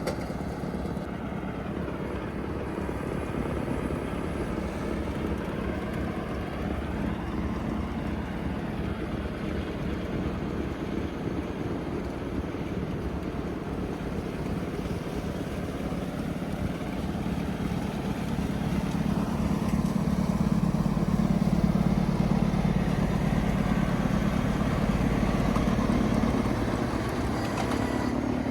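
Tractor engine running steadily under load while working a rear-mounted two-stage snowblower through deep snow. It gets louder about two-thirds of the way through, then eases slightly near the end.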